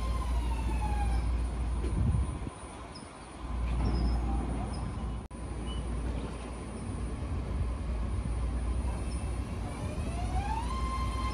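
BART electric train running with its high propulsion whine and a steady rumble. The whine slides down in pitch and fades just after the start, then rises back up and holds steady near the end.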